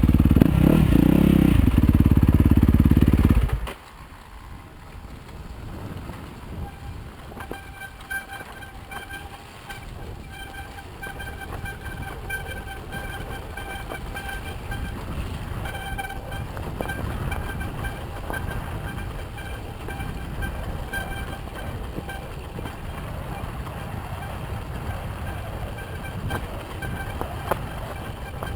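Yamaha YZ250FX dirt bike's 250 cc four-stroke single-cylinder engine running loud, then dropping suddenly to a much quieter low rumble about four seconds in. Through the quieter stretch a high steady tone comes and goes.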